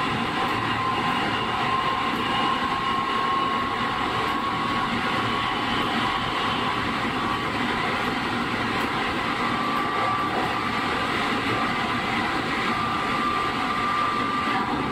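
Chiba New Town Railway 9100 series motor car (WN-drive) running at steady speed, heard from inside the car: an even rumble of wheels on rail with a thin, steady high whine.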